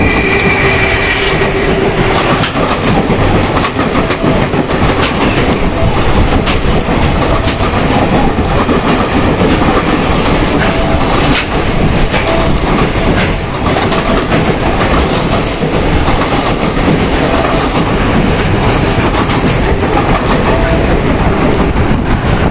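Train passing at speed close by: a steady loud rumble with the clickety-clack of wheels over rail joints, and a few steady tones that fade out about a second and a half in.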